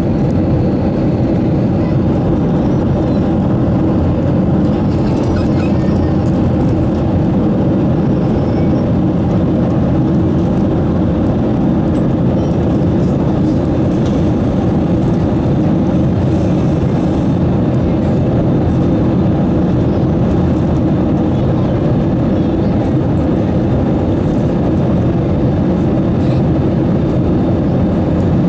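Steady engine and airflow noise inside the cabin of an Airbus A320-214 with CFM56 engines, a constant low drone with faint steady tones.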